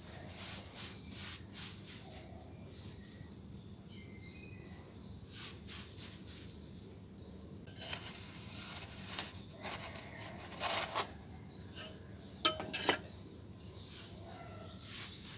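Damp, gritty red chunks being crumbled and crushed on a floor: scattered crisp crunches and gritty clicks, with louder crunching bursts about eight seconds in and again near eleven and thirteen seconds.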